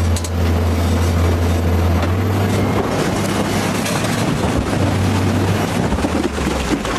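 Heavy machine's engine working hard under throttle, a loud low drone with rough grinding noise over it. The engine drone drops away about two to three seconds in and comes back near the end.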